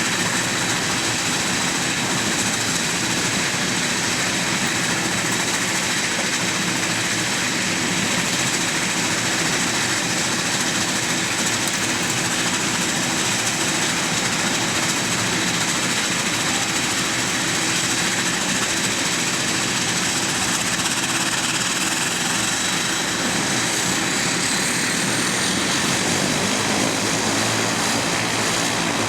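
De Havilland Dash 8-100 turboprop engines running: dense, steady noise with a high turbine whine. Near the end the whine rises slightly and a lower pitched hum grows stronger.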